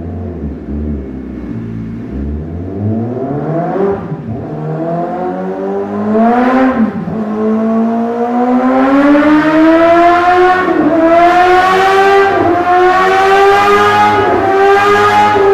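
Honda CBR1000RR inline-four engine with a CS Racing slip-on exhaust, revved from idle. After two short blips it climbs and holds at high revs, dipping briefly three times.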